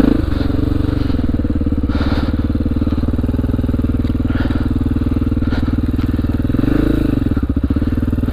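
2002 Honda XR400R's air-cooled single-cylinder four-stroke dirt bike engine running at a steady speed, with a brief blip of revs near the end.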